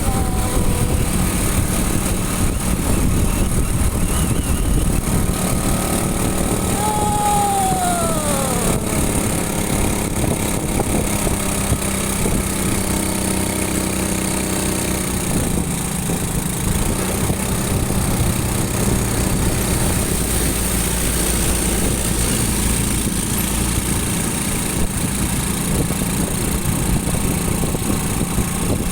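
Motorcycle engine running steadily on the move, under a constant haze of road noise. A single tone falls in pitch about seven seconds in.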